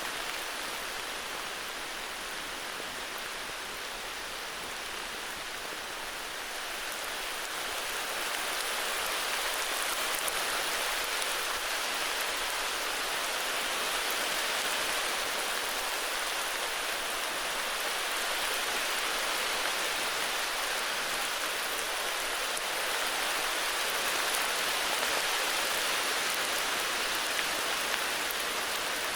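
Steady heavy rain hissing down, with no thunder or other events, growing slightly louder about a quarter of the way in.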